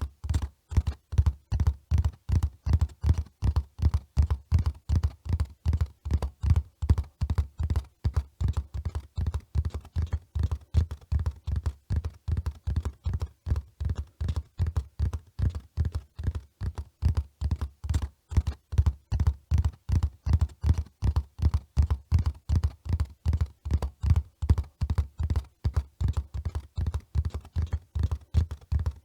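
Hoofbeats of a running horse: a quick, even rhythm of dull, low thuds that keeps on without a break.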